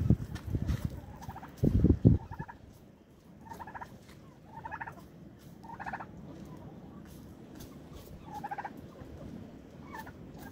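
Domestic turkeys gobbling: short rattling calls repeated about every second, with low rumbling knocks in the first two seconds.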